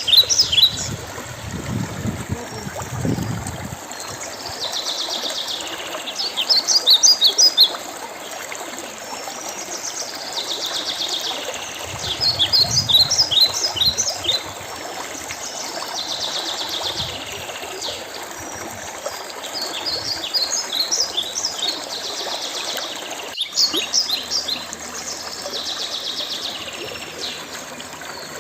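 Songbirds singing: quick runs of high chirping notes that come back every few seconds over a steady background hiss. A single sharp click sounds near the end.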